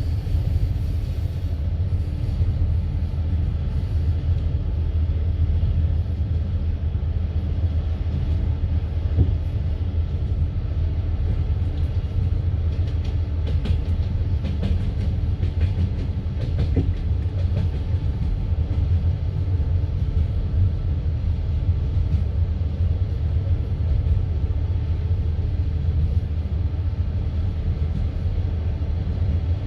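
Passenger train carriage running at speed on the line, heard from inside the car: a steady low rumble of wheels on rails, with faint clicking of the wheels over the track, most noticeable in the middle of the stretch.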